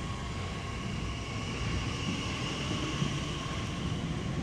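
Electric passenger train running along the line past the platform: a steady rumble and hiss with a faint whine.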